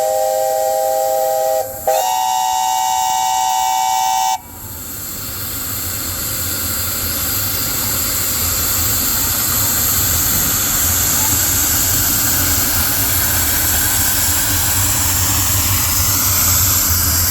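Narrow-gauge steam locomotive chime whistles blowing two long chords, the second one higher, which cut off sharply about four seconds in. Then a steady hiss of escaping steam.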